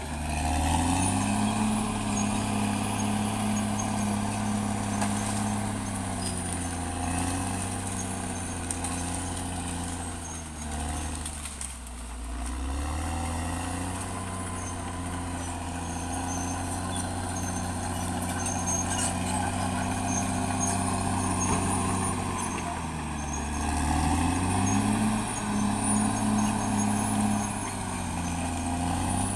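Caterpillar D6R XL bulldozer's diesel engine working. Its pitch rises about a second in, sags low around the middle, then climbs again a little before the end.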